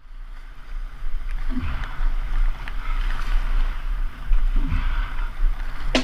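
Rushing, splashing tidal water around a sea kayak, with wind buffeting the microphone as a steady low rumble.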